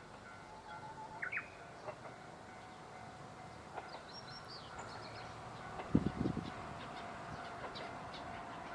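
Small birds chirping in short calls, some sweeping up in pitch, over a quiet outdoor background. About six seconds in there is a brief cluster of low knocks.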